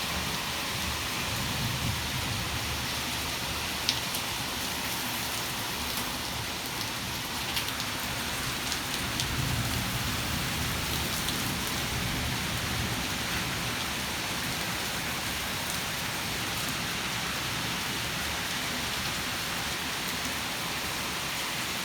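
Heavy rain pouring down steadily during a severe thunderstorm, with scattered sharp ticks of drops striking close by.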